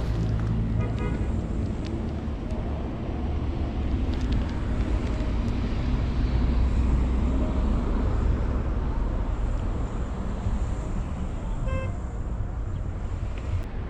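Street traffic in heavy snow: car engines and tyres make a steady low rumble, with a short car horn toot near the end.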